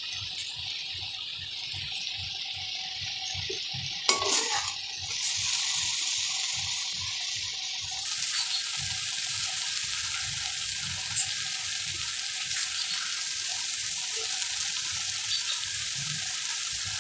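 Okra, tomatoes and onions sizzling in a steel pan on high heat, a steady hiss as the tomatoes' juices cook off. A sharp knock about four seconds in, and the sizzle grows fuller about halfway through.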